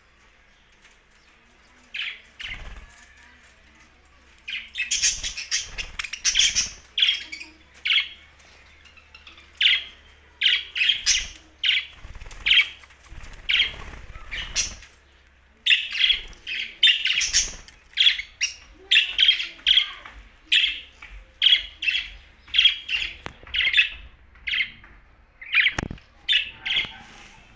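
Pet budgerigars chirping: a rapid series of short, sharp calls, starting about two seconds in and coming almost without pause from about five seconds on.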